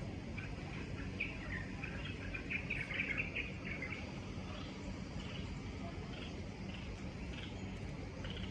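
Small birds chirping and twittering, a dense run of quick chirps in the first few seconds thinning to scattered calls, over a steady low background rumble.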